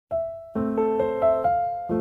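Piano music: a single note, then a chord about half a second in, with new notes played over it every quarter second or so, and a fresh chord near the end.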